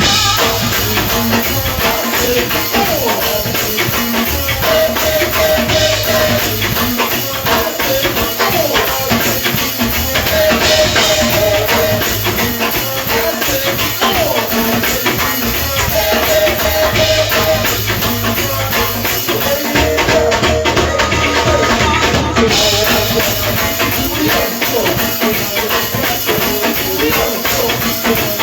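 A band playing music with a steady beat, busy percussion and a bass line, with a short melodic phrase recurring every few seconds.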